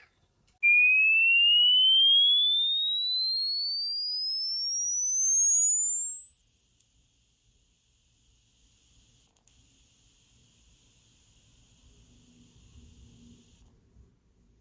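Hearing-test tone: a pure sine tone sweeping steadily upward in pitch from a high whistle to a very high one, growing fainter as it climbs. After a brief break a second, even higher tone starts and keeps rising until it cuts off near the end.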